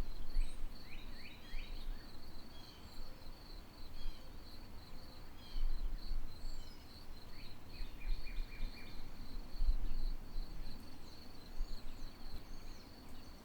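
A cricket trilling steadily with a fast, even pulse, while a bird gives short chirps about a second in and again past the middle.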